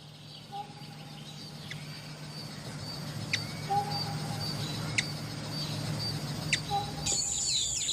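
Hummingbird: a steady low hum of beating wings that slowly grows louder, with a few short, sharp high chirps. Near the end a different, steady high-pitched sound begins.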